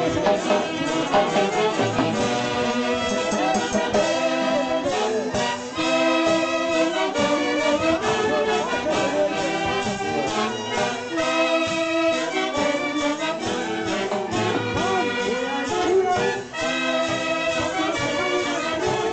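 Andean festival orchestra playing, with trumpets and saxophones carrying the melody in short repeated phrases over a steady dance beat.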